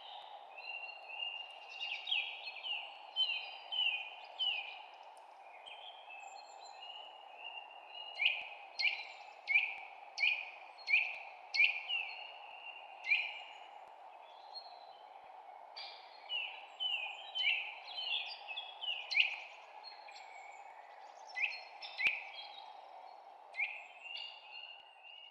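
Songbirds chirping: runs of short, sharp notes that each drop in pitch, about two a second, over a steady dull background noise.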